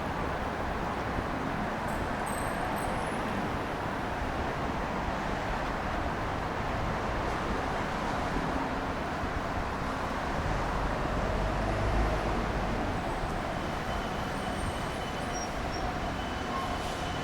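City street traffic on wet roads: a steady hiss of tyres and engines, with a heavier vehicle passing close about eleven seconds in.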